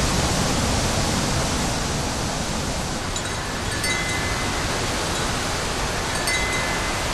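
Strong windstorm wind blowing steadily, with a dense low rumble. A few high ringing tones come in about three seconds in and again about six seconds in.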